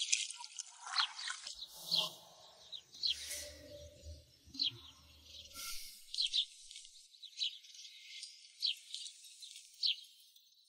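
Birds chirping outdoors: short, high, falling chirps repeated about once a second, with a faint low rumble underneath for a few seconds in the first half.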